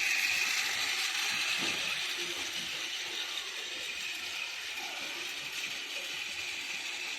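Rail King toy train running on its track: a steady mechanical whir and rattle of the small motor and gears that eases off slightly.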